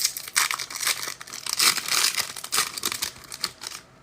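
Foil wrapper of a trading-card pack crinkling and tearing as it is ripped open by hand, a dense irregular crackle that dies away near the end.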